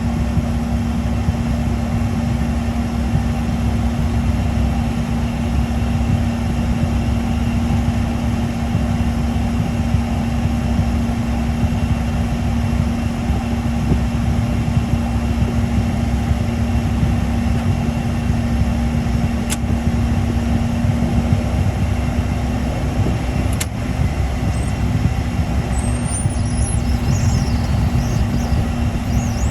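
Learjet 60's Pratt & Whitney PW305A turbofans running at idle power while taxiing: a steady drone with a low rumble and a constant hum, with no change in power. A couple of faint clicks come near the middle.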